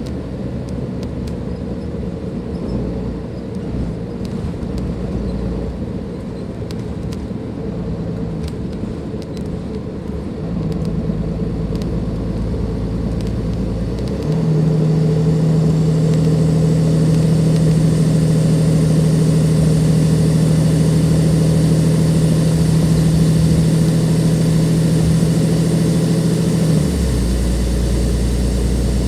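Dennis Enviro 500 bus's Cummins ISLe340B diesel engine running with a steady drone. It steps up about ten and again about fourteen seconds in, getting louder and holding a strong steady hum until it changes back near the end, with a faint high turbo whine over it.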